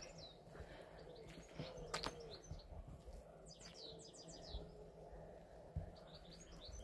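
Faint songbirds chirping, with a quick run of high falling notes about three and a half seconds in. A single sharp click sounds about two seconds in.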